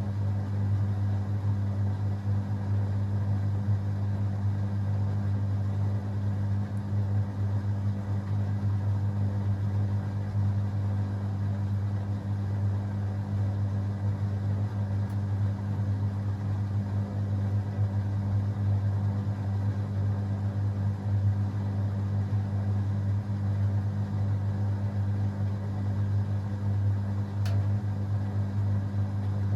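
Beko WA 1050 washing machine running with a steady motor hum.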